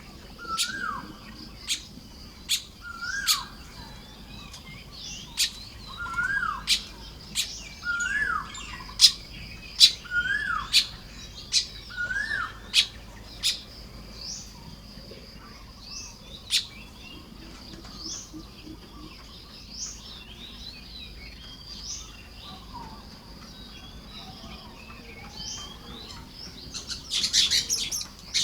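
Baya weavers calling at their nests. Sharp high chips, each with a short hooked whistled note, repeat about once a second through the first half, then come more sparsely. Near the end there is a burst of dense, buzzy chatter. A thin, steady high tone runs underneath.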